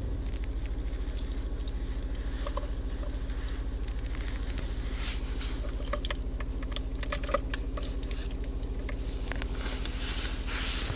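Small 1.2-litre carburetted car engine idling steadily, with light clicks and rustling over it.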